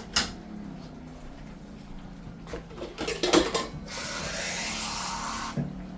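Kitchen clatter of pots and utensils knocking together, loudest a little past the middle, followed by a steady hiss for about a second and a half that cuts off suddenly.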